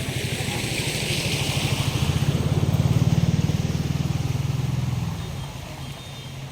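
A small engine running past: a low, pulsing engine note that grows louder to a peak about three seconds in, then fades away after about five seconds.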